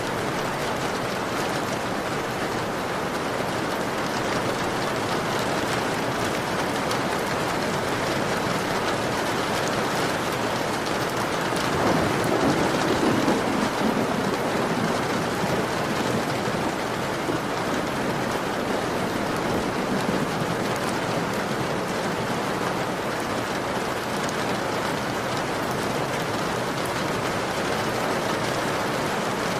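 Heavy rain falling steadily on a window pane, a dense even hiss of drops. About twelve seconds in, a low rumble swells for a couple of seconds and fades back into the rain.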